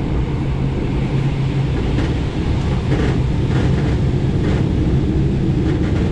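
Interior running noise of an SKM Tricity electric commuter train moving along the track: a steady low rumble with a steady hum, and a few light clicks around the middle.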